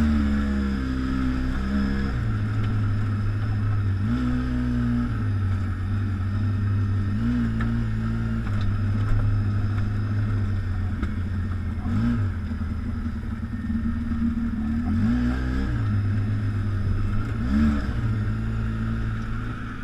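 ATV engine running under way on a trail, holding a steady note that dips and climbs briefly every few seconds as the throttle is eased and opened again.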